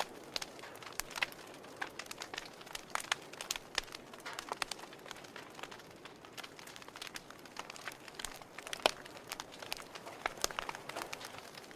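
Wood fire crackling: irregular sharp pops and snaps over a soft hiss, with one louder pop about nine seconds in.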